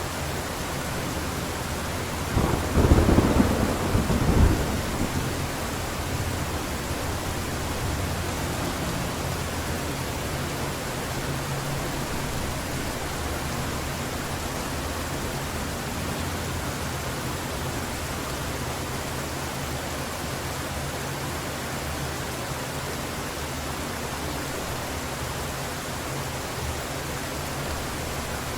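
Heavy rain falling steadily, with a clap of thunder about two and a half seconds in that rumbles for about two seconds before the rain alone carries on.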